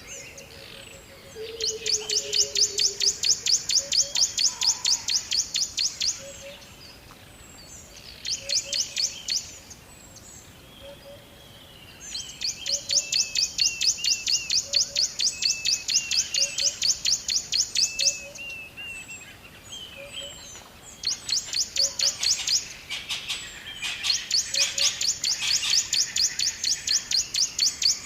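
Birds chirping in long, fast trills of sharp high notes, each bout lasting several seconds with short breaks between. Under them a soft low note repeats about once a second.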